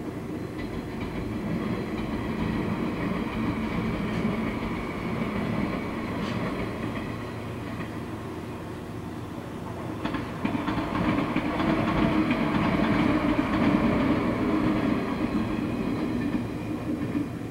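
JR West 115 series electric train running past on the track. Its running noise is loudest from about ten seconds in and eases near the end.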